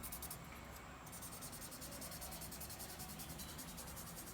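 Faint scratchy rubbing of a paper blending stump worked over graphite pencil shading on paper, smoothing the shade until it is even.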